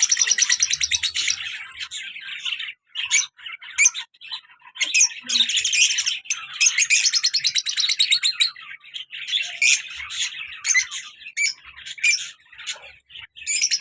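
Pair of lovebirds, one a black-masked lovebird, chattering in fast trains of shrill chirps. The chirps come in bursts of a second or more, with short breaks between them.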